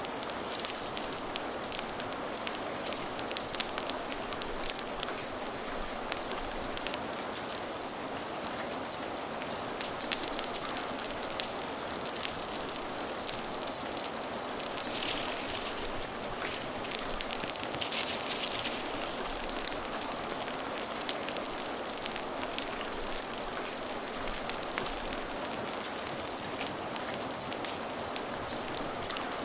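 Steady rain with a crackling fire: an even hiss of rainfall with many small, irregular pops and crackles scattered through it.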